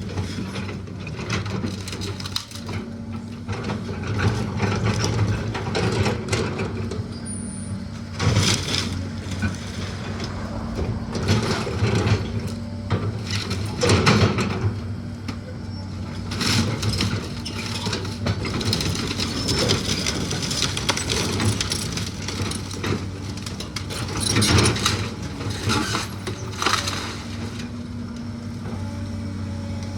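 A heavy machine's engine running steadily while the wooden house is torn down, with repeated crunching and splintering of timber. The loudest crashes come about 8, 14 and 24 seconds in.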